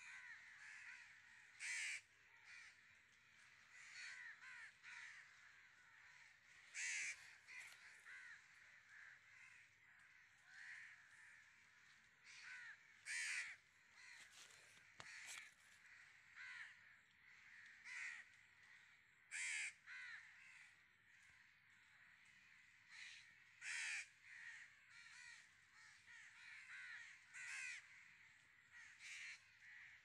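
Faint outdoor birdsong: a steady, overlapping chatter of short calls, with a louder, harsher call every few seconds.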